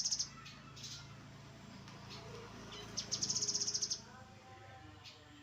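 Grey-headed canary-flycatcher singing: a fast, high trill of rapidly repeated notes at the very start, and another about a second long three seconds in, over a faint low hum.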